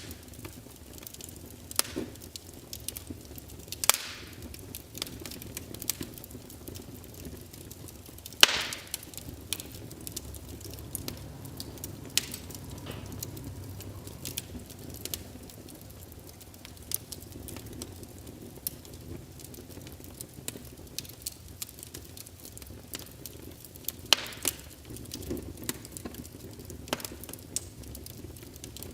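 Wood fire crackling in a fireplace: a steady scatter of small crackles with a few louder pops, the loudest about eight and a half seconds in, over a faint low rumble.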